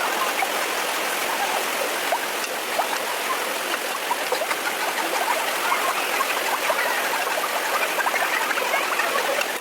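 Water flowing in a stream, a steady rush with many small bubbling plops.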